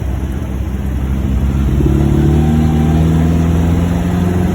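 1949 MG YT's 1250 cc four-cylinder engine pulling in second gear, its pitch rising as the car picks up speed from about two seconds in.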